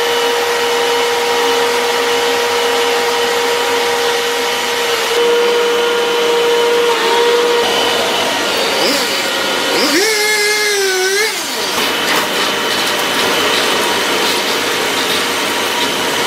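Chainsaw engine running steadily, with a brief wavering tone about ten seconds in.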